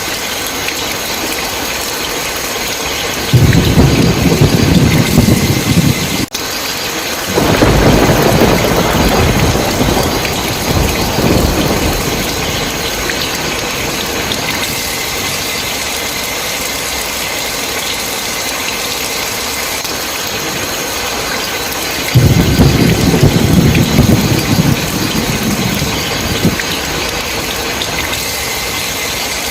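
Steady heavy rain with three rolls of thunder: one a few seconds in, a longer one soon after, and a third near the end.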